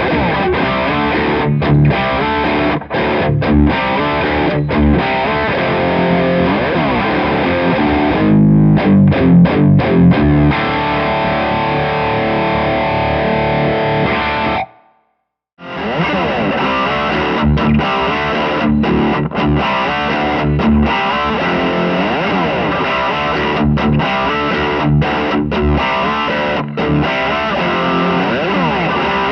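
Electric guitar playing a riff through an overdriven tube amp. About halfway through, the sound cuts out to silence for about a second, then the playing starts again.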